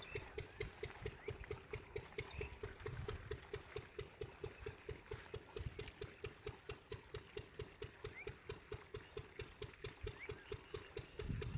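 Village diesel engine running steadily with an even chugging beat of about four to five firing thumps a second.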